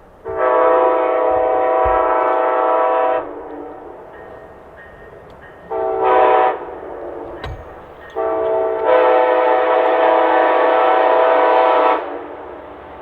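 Locomotive air horn sounding three blasts: long, short, long, the last held about four seconds and cutting off about a second before the end. A low rumble of the train runs underneath.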